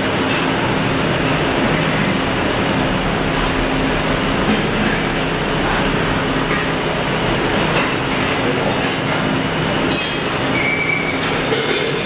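Arc welding at work: a steady, dense hiss over a low welding-machine hum.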